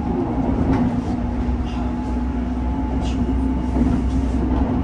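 Gyeonggang Line electric multiple unit running at speed, heard inside the passenger car: a steady low rumble with a constant hum and a few faint ticks.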